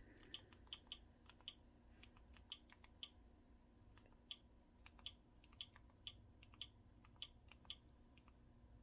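Faint, irregular clicks of Fire TV Stick menu navigation, about twenty short ticks, some in quick pairs, as the remote steps through an app's menus.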